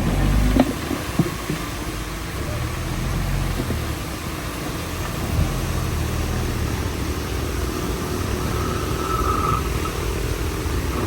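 Bulldozer's heavy diesel engine running steadily, with a couple of sharp knocks in the first second or so and a thin high whine coming in about eight seconds in.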